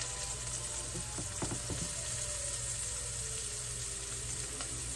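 Meat sizzling steadily as it fries in hot grease in a pan, with a few faint knocks about a second and a half in.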